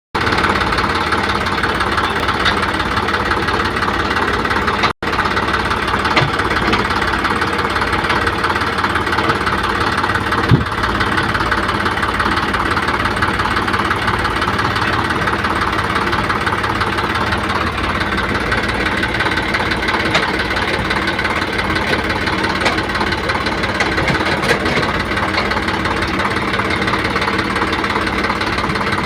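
Excavator diesel engine running steadily, with a single sharp clank about ten seconds in. The sound cuts out for an instant about five seconds in.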